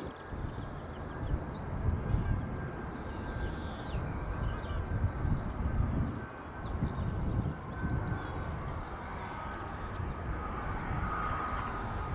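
Jet airliner engines running at a distance: a low rumble that rises and falls unevenly, with a faint steady whine over it. Birds chirp in the middle.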